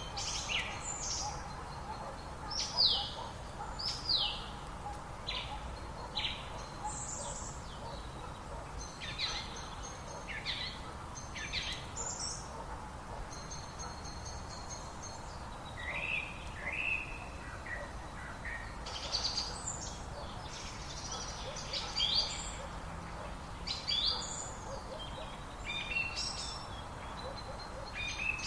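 Birds calling and singing throughout, short sharp calls and quick downward-sweeping whistles in several different patterns, over the steady rush of a river.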